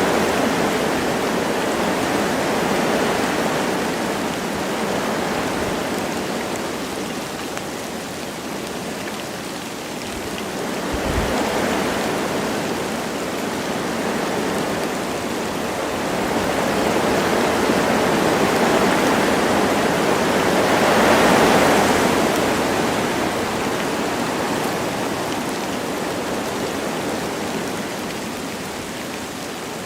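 Wind blowing through forest trees with light rain, a steady rushing that swells and eases in slow gusts, strongest about two-thirds of the way through. A brief low thump about a third of the way in.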